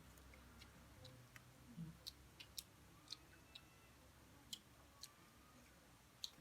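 Faint eating sounds: a dozen or so small, sharp clicks and smacks at irregular intervals, over a low hum.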